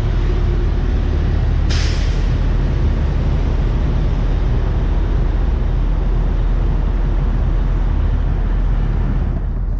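A vehicle engine running steadily with a constant low hum, and a short hiss about two seconds in.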